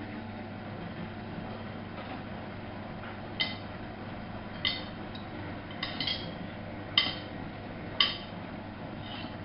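Miele Novo Super W933 washing machine running with a steady hum, while about six sharp metallic clinks ring out a second or so apart through the middle, the last two the loudest.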